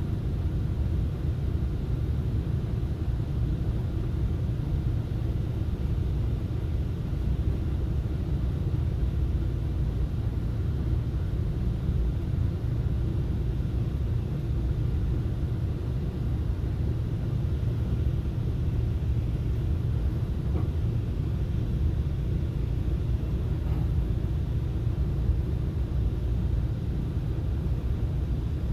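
Steady low rumble inside a FrontRunner commuter train's passenger car while it is under way: wheels running on the rails and the car's running noise, even and unbroken.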